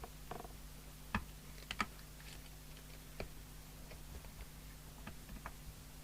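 A few small, sharp clicks and taps, the clearest about one, two and three seconds in, from hand work on a CB radio's chassis while its VCO setting is being adjusted. A low, steady electrical hum runs underneath.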